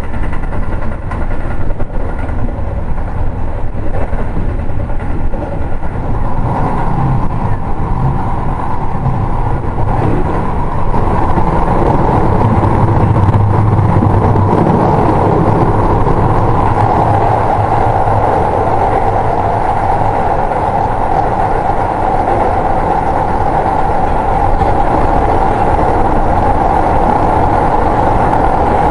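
Running sound of a Keio 7000 series electric train heard from inside the car: a continuous rumble of wheels on rail, with a higher rushing tone that grows stronger from about six seconds in.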